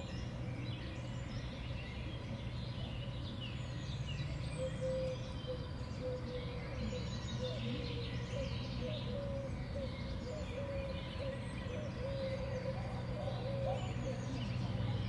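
Small songbirds at a winter feeder calling and chirping, many short high chirps overlapping, over a steady low background hum.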